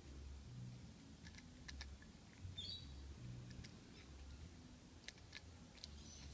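Faint, scattered clicks and taps of a screwdriver and small metal padlock parts being handled, with a bird chirping once about two and a half seconds in.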